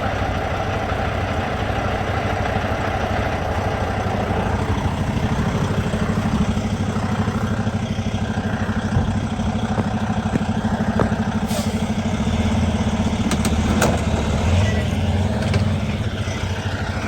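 Vehicle engine running steadily, with a few faint clicks about two thirds of the way through.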